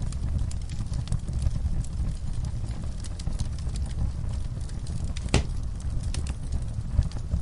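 Wood fire burning in an outdoor fireplace, crackling with irregular small snaps over a low steady rumble, and one sharp pop about five seconds in.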